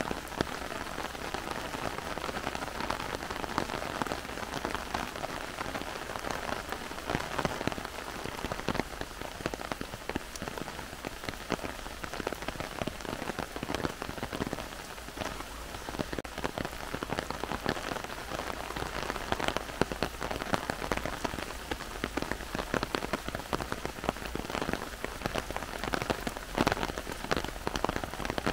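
Heavy rain falling through forest trees: a steady, dense hiss thick with the ticks of individual drops.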